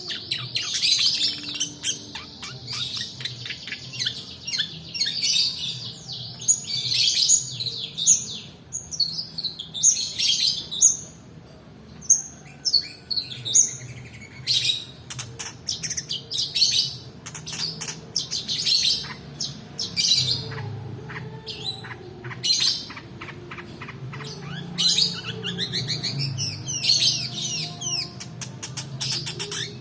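Long-tailed shrike singing a fast, varied song of chirps, harsh notes and rapid rolling trills, with a brief lull about halfway through.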